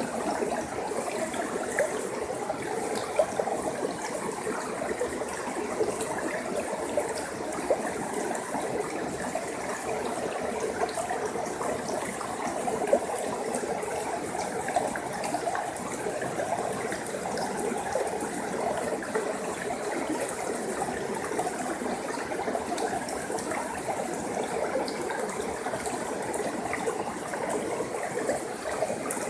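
A forest stream flowing and trickling over rocks, a steady burble with small splashes and drips throughout.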